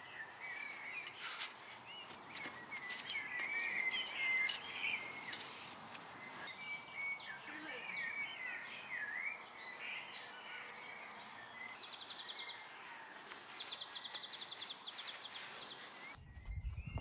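Garden birds chirping and warbling in short wavering calls, with two rapid high trills in the second half and a few light clicks in the first few seconds. About a second before the end a low rumbling noise takes over.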